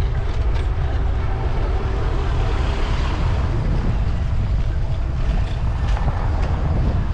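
Steady low rumble of wind buffeting the microphone on a moving bicycle, over a haze of city street noise.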